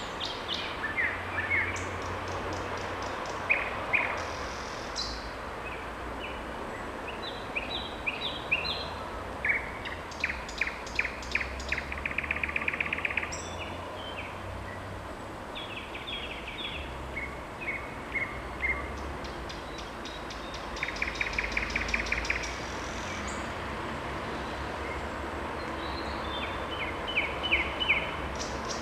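Thrush nightingale singing: short phrases of repeated notes broken by pauses, with two long, fast rattling trills about twelve and twenty-one seconds in. A steady low rumble runs underneath.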